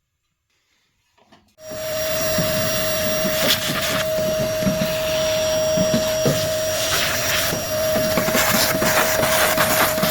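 A vacuum cleaner switches on about a second and a half in and runs steadily with a whining tone, cleaning out a gas convector heater. Scattered knocks and rattles sound over it.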